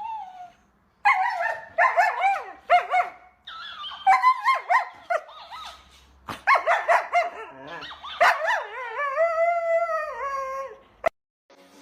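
A dog yipping and howling: a run of short high-pitched calls that bend up and down in pitch, then one long drawn-out howl near the end that cuts off suddenly.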